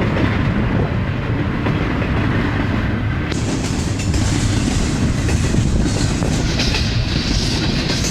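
Long freight train of intermodal and mixed cars rolling past, a steady rumble of wheels on rail, with a higher hiss joining in from about three seconds in.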